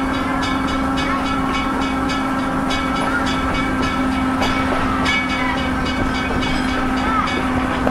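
A passenger train rolling slowly, heard from inside the car: a steady low hum with a rapid run of clicks, about four a second, from the wheels on the rails.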